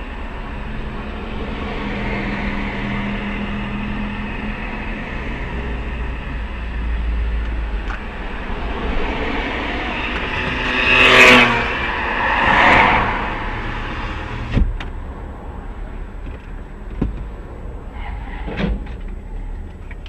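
Car road and engine noise, as from a dashcam inside a moving car, with two vehicles whooshing past close by about halfway through. After that come a few short, sharp knocks.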